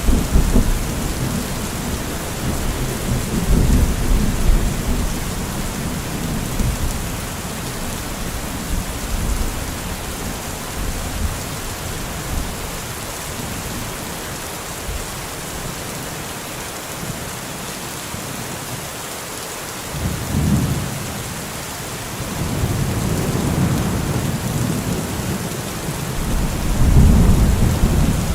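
Steady rain falling, with low rolling thunder: a rumble dying away in the first few seconds, another beginning about twenty seconds in, and a louder roll near the end.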